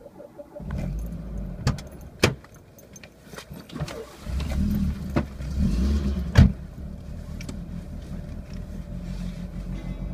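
Peugeot 205 GTI's 1.6-litre four-cylinder engine starting from cold and running rough, its revs raised and dropped with the throttle to keep it from stalling, then settling into a steadier idle over the last few seconds. Sharp clicks come around two seconds in and a loud knock about six and a half seconds in.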